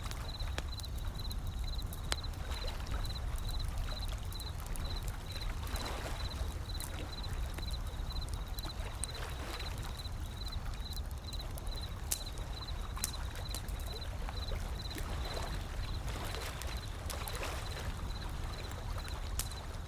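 Wood fire crackling with scattered sharp pops over a steady low rumble of ocean surf, with waves washing in a few times. A faint high pulsing, about two pulses a second, runs through the first half.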